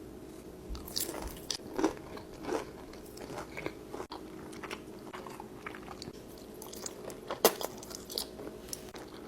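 Close-miked biting and chewing of crispy fried chicken tenders, with soft crunches scattered through and a sharper crunch about seven and a half seconds in. A faint steady hum lies beneath.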